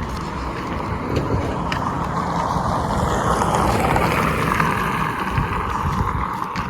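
A vehicle passing by: a rush of tyre and engine noise that swells to a peak about four seconds in and then fades, with wind buffeting the microphone.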